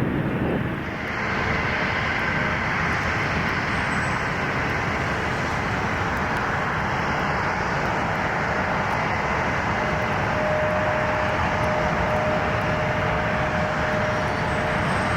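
Korean Air Boeing 777-300ER's twin GE90-115B turbofans at takeoff power, a loud steady jet roar with a faint whine through it. The sound changes abruptly about a second in, where the previous airliner's sound is cut off.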